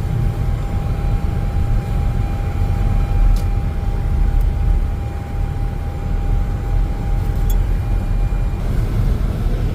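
Road noise inside a moving car's cabin: a steady low rumble of tyres and engine while driving on a snowy highway, with a faint steady whine that stops near the end.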